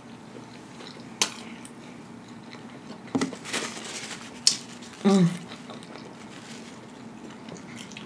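Close-up mouth sounds of a person chewing a bite of burger: scattered wet smacks and clicks, a denser cluster about three seconds in, and a brief hummed 'mm' about five seconds in, over a steady low hum.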